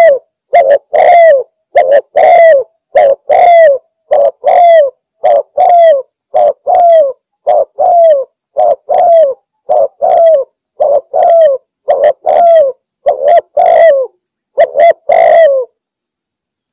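Spotted dove cooing: a loud, rapid run of short coos, about two a second, each dropping slightly in pitch at its end, stopping shortly before the end. It is the calling-out-rivals call that is used as lure audio.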